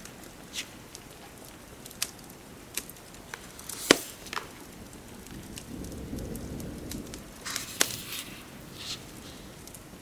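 Wood fire crackling with scattered sharp pops, the loudest about four seconds in, over a faint steady hiss. A soft low rumbling swell comes in the middle.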